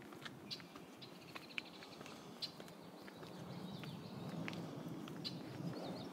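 Short sharp animal chirps at irregular intervals, with a thin high call in the first second or so. Under them is a low rustling that grows louder in the second half.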